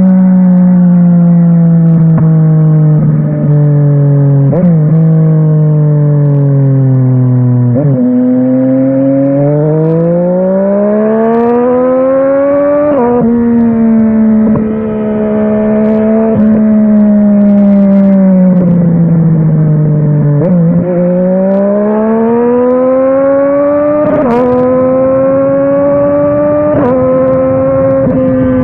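Yamaha Tracer 900 GT's inline-three engine through a WR Authentic aftermarket exhaust, on the move: the engine note drops steadily as the bike slows, climbs under acceleration about eight seconds in, holds through gear changes, drops again and climbs once more near the end. Short sharp clicks and breaks in the note mark the gear changes.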